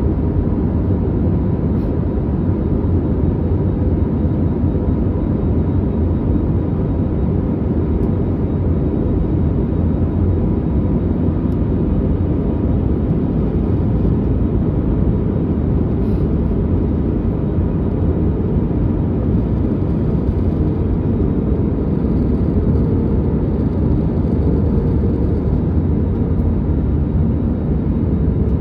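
Steady cabin noise inside an Airbus A321neo airliner on descent: a low, even rush of airflow and engine noise with a faint steady hum.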